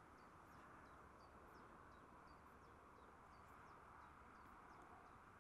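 Near silence: faint outdoor lakeside ambience with a small bird chirping faintly, short high falling notes repeating about two to three times a second.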